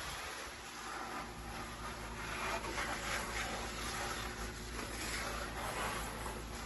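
Water splashing steadily onto potted plants and their soil as they are watered, a continuous hiss that swells and eases a little.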